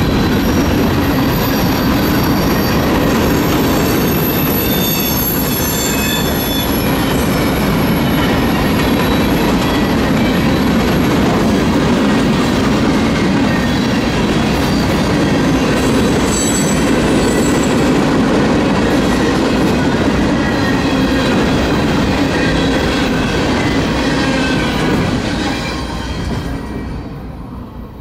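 Union Pacific freight train's cars rolling past with a steady rumble and faint, high-pitched wheel squeal, fading away over the last few seconds as the train moves off.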